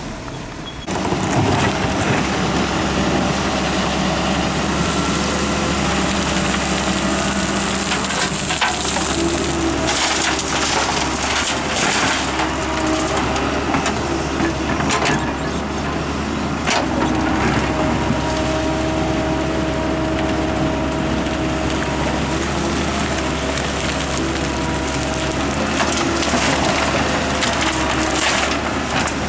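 Heavy diesel machinery, excavator and dump trucks, running steadily at work, louder from about a second in, with scattered knocks and crunches of soil and rock being scooped and dropped.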